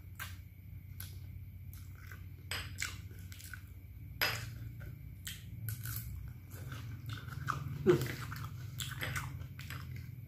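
A person chewing and biting mouthfuls of Indomie fried noodles mixed with crunchy rempeyek peanut crackers, close to the microphone. Irregular mouth clicks and small crunches sound over a low steady hum.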